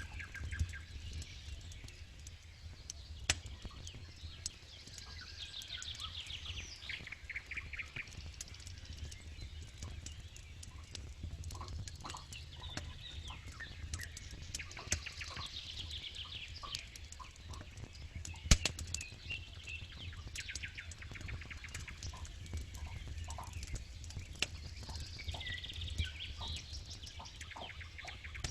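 Wood campfire crackling with frequent small pops and two louder snaps, about three seconds in and about two-thirds of the way through, over a low steady rumble of the flames.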